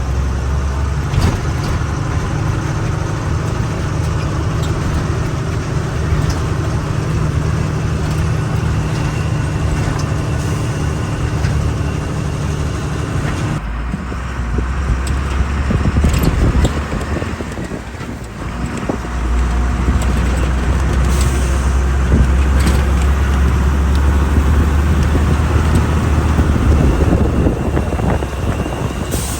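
Truck engine running while driving, heard from the cab with road noise. The steady drone breaks off about halfway through, dips, and then builds back up a few seconds later.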